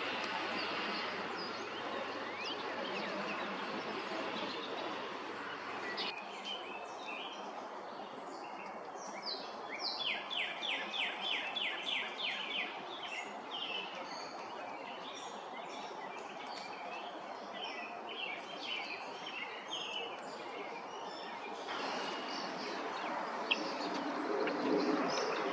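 Outdoor ambience of steady background noise with assorted wild birds chirping. About ten seconds in, one bird gives a quick run of about a dozen rapid notes, roughly five a second.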